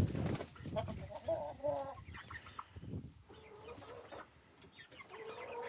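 Hens clucking in short calls, a cluster in the first two seconds and more near the end.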